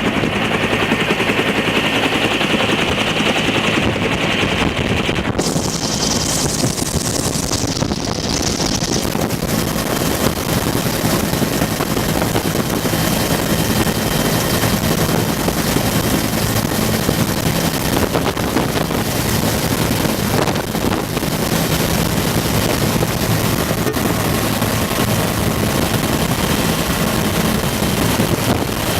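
Bell UH-1 Huey helicopter in flight, heard from inside the doorless cabin: the loud, steady rapid chop of the two-bladed main rotor with turbine engine whine, the high whine shifting higher in pitch about five seconds in.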